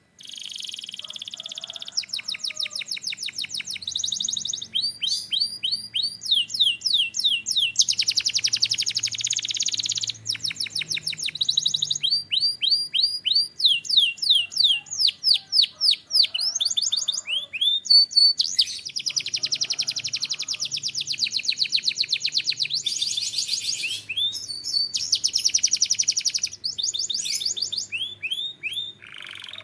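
Canary singing a continuous song. It starts suddenly and changes phrase every second or two. Slow runs of repeated rising notes, about four to six a second, alternate with very fast buzzy trills, with a brief break about eighteen seconds in.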